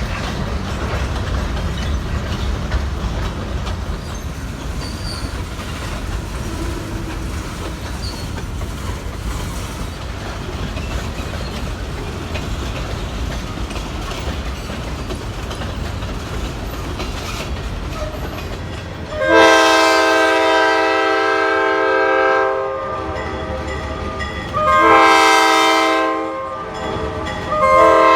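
Freight train rumbling along the rails, then the locomotive's air horn sounding three times: a long blast of about three seconds, a shorter one, and a third starting near the end.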